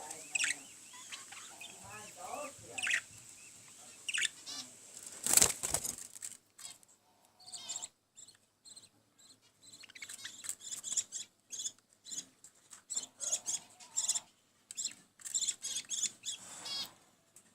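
Budgerigar chicks chirping while being fed, the short high calls coming thick and fast in the second half, with one brief loud flutter about five seconds in.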